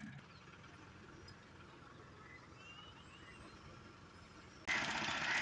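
Quiet outdoor background with a few faint chirps. About four and a half seconds in, a loud engine running cuts in suddenly.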